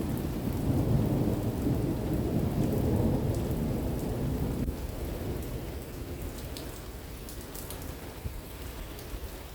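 Rolling thunder rumbling over steady rain, the rumble fading away about halfway through while the rain goes on, with scattered raindrop ticks close by.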